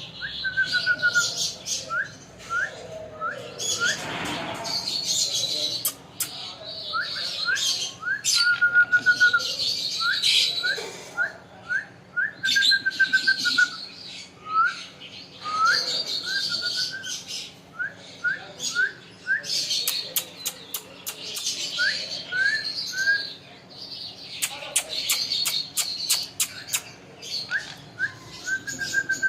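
Pet parrot chirping and whistling: a long run of short rising chirps with a few brief held whistles, mixed with harsher scratchy calls and, twice, quick runs of sharp clicks.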